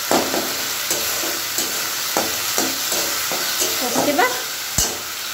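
Tomato-and-spice masala sizzling in oil in an aluminium kadhai while a metal spatula stirs it, scraping and clacking against the pan every half second or so, with a sharper knock near the end. The masala is being fried down (bhuna) in the oil.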